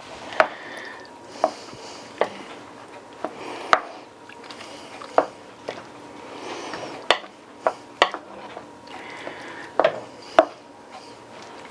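Metal spoon clinking and knocking against a pot of chili, about a dozen sharp, irregular clinks over a low steady hiss.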